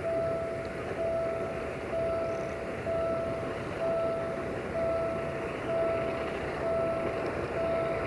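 A freight train rumbles along steadily in the distance, with an electronic warning beeper sounding a single steady tone about once a second, each beep lasting most of a second with a short gap between.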